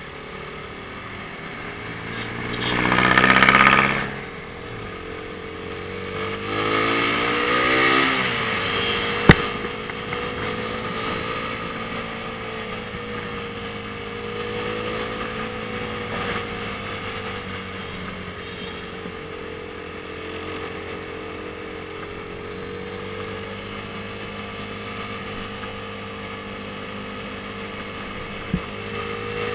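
Suzuki Raider R150 single-cylinder motorcycle engine running under way, its note rising as it accelerates about six to eight seconds in, then cruising with the pitch gently wavering. A loud rushing swell comes about three seconds in, and there are two short sharp ticks, one near nine seconds and one near the end.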